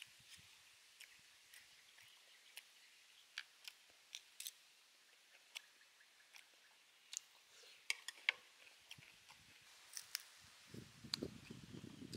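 Faint eating sounds from deep-fried chicken feet: sharp, crisp clicks and crackles scattered throughout, with fuller, lower chewing noise near the end.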